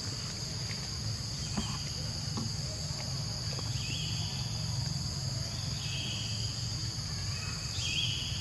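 Steady high-pitched insect chorus of crickets or cicadas over a low steady hum. From about four seconds in, a short high call repeats roughly every two seconds.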